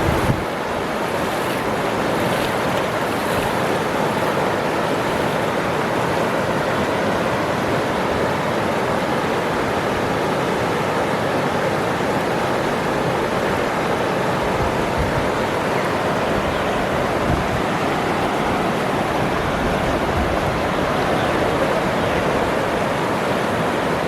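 Waterfall's water rushing, a steady unbroken roar of falling water.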